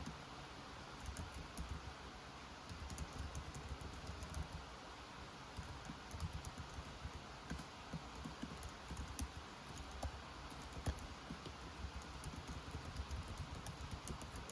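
Typing on a computer keyboard, keystrokes clicking in quick bursts, over a steady hiss of rain.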